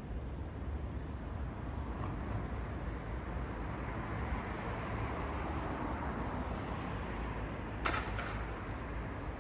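Night city street ambience: steady low traffic rumble, swelling in the middle as a vehicle passes, with two sharp clicks close together near the end.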